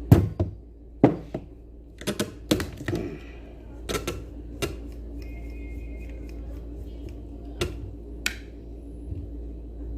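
Irregular sharp clicks and knocks of hand tools against a Sanyo blender's housing as its cover is being worked open, with a short squeak about halfway through.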